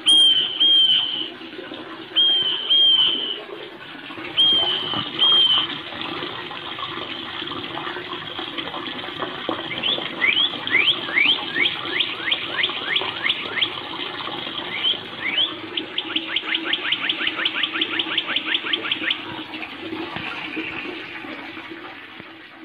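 Songbirds calling over a steady rushing noise. A short two-note call comes three times in the first six seconds, then a long trill of quick rising notes that speeds up about halfway through.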